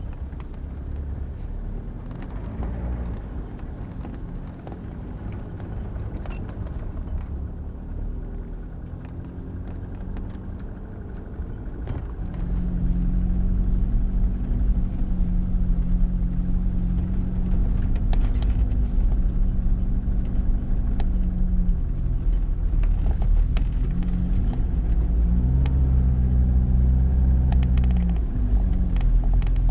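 Off-road 4x4 engine running as the vehicle drives a dirt forest track. It gets louder about twelve seconds in, and its pitch shifts up and down several times after that.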